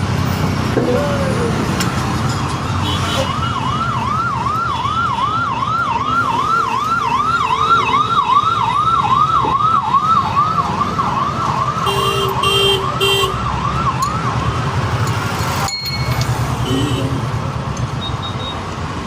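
An electronic siren yelping, a fast up-and-down wail repeating about two to three times a second for roughly ten seconds before it stops, over a steady low traffic rumble. A brief horn-like tone sounds near the end.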